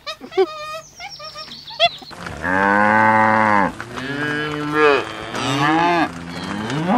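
Cattle mooing: about four long, deep moos one after another, starting about two seconds in.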